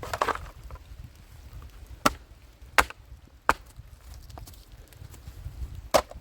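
A short scrape at the start, then four sharp knocks: three a little under a second apart in the middle and a fourth near the end.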